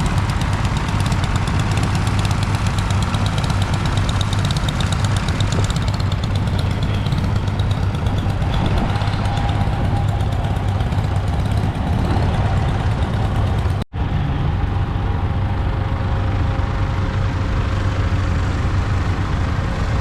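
Engines of antique machinery running steadily with a rapid, even beat. The sound breaks off for an instant about two-thirds of the way through, then a similar engine sound resumes.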